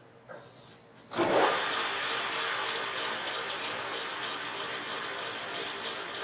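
A machine starts abruptly about a second in and runs steadily with a loud rushing, hissing noise.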